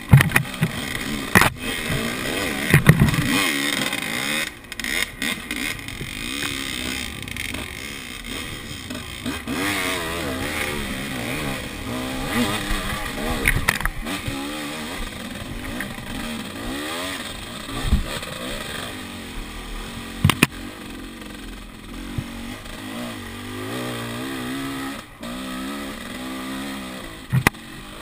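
Enduro dirt bike engine revving up and down over a rough trail, its pitch rising and falling again and again, with sharp knocks and clatter from the ride.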